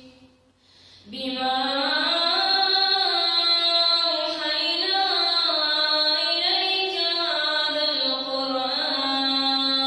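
A girl reciting the Quran in melodic chanted recitation, holding long, ornamented notes with gliding pitch. There is a short pause for breath at the start, and the recitation resumes about a second in.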